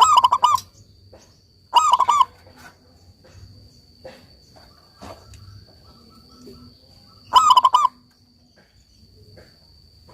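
Zebra dove (perkutut) singing: three short phrases of quick, rapidly repeated cooing notes, one at the start, one about two seconds in and one near eight seconds in, each about half a second long.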